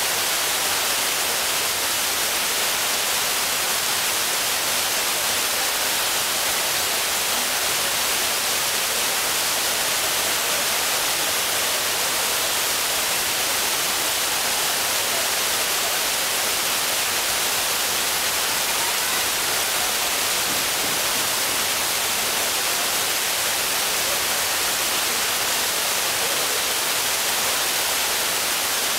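Shiraito Falls' water falling steadily: an even, unbroken hiss that is strongest in the upper range and never changes in level.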